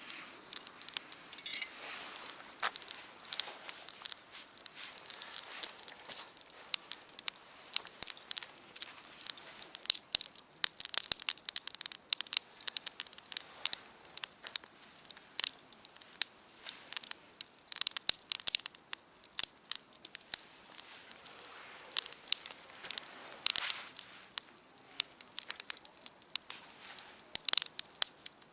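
Wood campfire crackling, with irregular sharp pops and snaps over a faint hiss, some clusters of pops denser than others.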